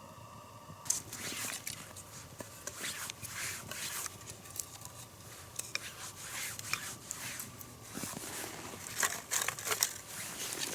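Irregular scraping and rustling strokes of dry wood splinters being handled and worked while readying kindling for a campfire. There is a few sharper strokes near the end.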